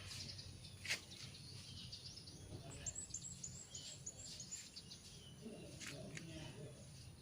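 A bird chirping: a quick run of short, high, falling chirps about three seconds in, over a steady low background hum, with a couple of sharp clicks.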